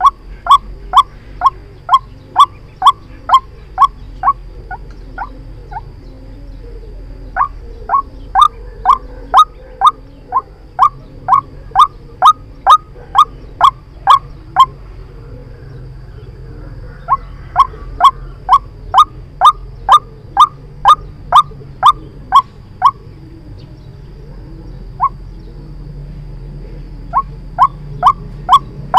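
White-breasted waterhen calling, played as a trapping lure: a rapid series of short, sharp notes, each falling slightly in pitch, about two or three a second. The notes come in bouts of several seconds with brief pauses between, over a low steady hum.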